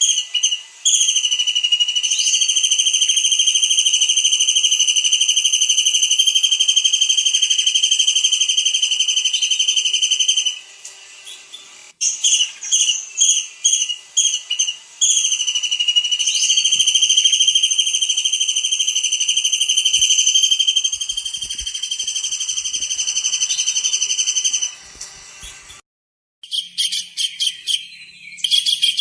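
Tengkek udang (a small kingfisher) calling: a quick run of short, high whistled notes, then one long, steady, high whistle held for several seconds. The sequence comes twice, and a rapid series of notes follows near the end.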